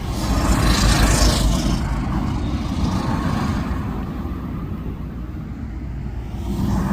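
Deep rumble of jet aircraft engines, with a louder hissing rush about a second in that fades away over the next few seconds.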